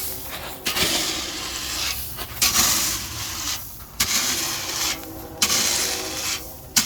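Gravel being scraped and shifted, in a series of rough scrapes about a second or so apart.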